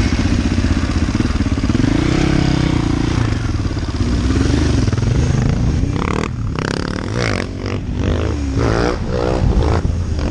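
KTM 450 EXC supermoto's single-cylinder four-stroke engine through an Akrapovic exhaust, running loudly under way. From about six seconds in, the revs climb and drop several times in quick succession as the bike accelerates.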